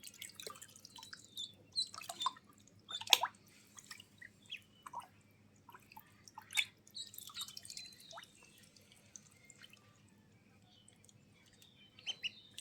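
Water splashing and dripping as a duck moves in it: irregular small splashes and drips, the loudest about three seconds in.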